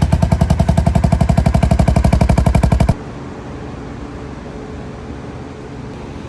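Honda 350 ATV engine running through a damaged muffler, its exhaust loud and sharply pulsing at about fifteen beats a second. About three seconds in it cuts abruptly to a much quieter, steady engine sound.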